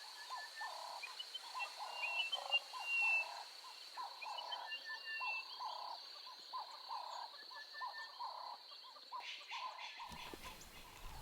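Bush ambience with an animal, most likely a frog, calling in a steady repeated rhythm of about two short calls a second. Faint bird chirps and a steady high insect whine run underneath.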